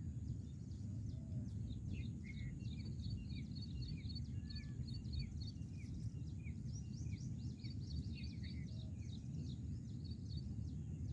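Birds chirping: many short, quick high notes, beginning about two seconds in, over a steady low background rumble of outdoor noise.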